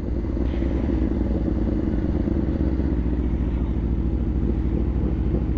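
Aprilia RSV4 Factory 1100's V4 engine with an SC Projects titanium exhaust running steadily at low speed, a low, even rumble with no revving.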